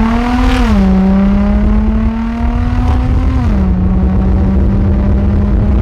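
Straight-piped Infiniti G35's V6 exhaust under hard acceleration: the revs climb and drop at an upshift about a second in, climb again more slowly, drop at a second upshift around three and a half seconds in, then hold steady.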